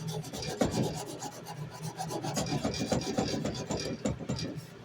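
Sandpaper rubbed by hand on a steel knife blade in rapid, uneven back-and-forth scraping strokes, easing off near the end.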